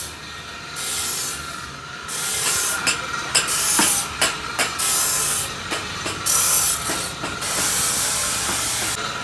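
Hand work on a motorcycle muffler's baffle and glass-wool packing: uneven bursts of rasping, hissing noise with several sharp clicks and knocks in the middle.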